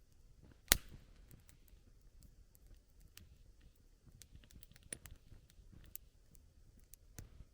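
Wood campfire crackling, with scattered small ticks and snaps and one sharp, loud pop less than a second in.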